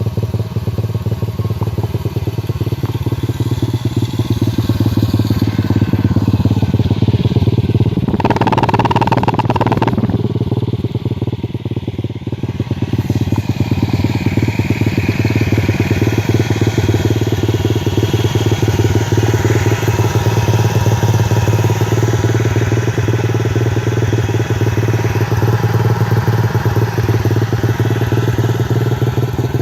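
X-Pro FX 125cc dirt bike's single-cylinder four-stroke engine running steadily. A brief louder, noisier patch comes about eight seconds in.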